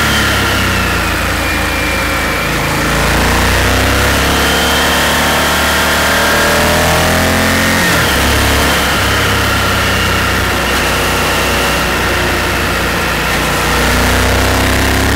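Honda Varadero V-twin engine running on the move, its note climbing for several seconds, dropping suddenly about halfway through, then holding steady, with wind rushing past the helmet.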